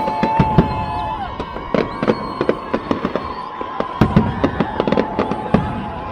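Fireworks going off: many sharp bangs and cracks in rapid, irregular succession, with high whistling tones held through the first second or so.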